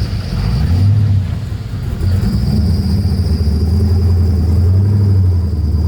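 Vehicle engine running at low revs with a deep steady rumble, dipping briefly early on and then holding steady.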